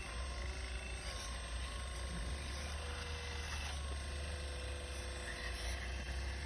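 Remote-control excavator's motors and hydraulic pump whirring steadily as it digs, a whine of several tones over a low rumble.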